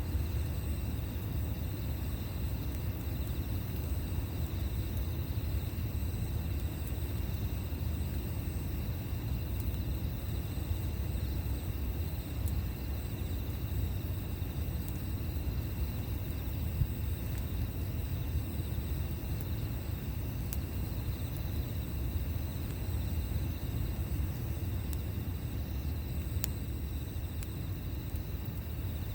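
Campfire burning with a steady low rumble and a few sharp crackles, while insects chirp steadily.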